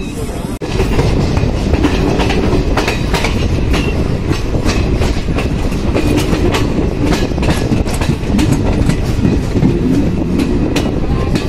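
Passenger train running, heard from on board: a steady rumble of wheels on track with a rapid clickety-clack as the wheels cross rail joints.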